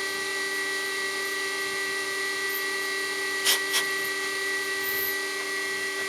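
Milling machine spindle running with a steady whine while an end mill cuts an aluminium block. Two brief ticks come about three and a half seconds in.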